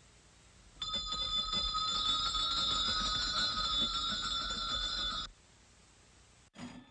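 A bell ringing rapidly and continuously, a bright metallic jangle of several high tones, for about four and a half seconds before it cuts off abruptly.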